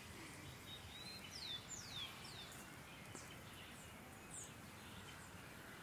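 Faint wild birds calling: short, high, falling chirps, several in quick succession about a second and a half in, then a few scattered single calls, over faint background noise.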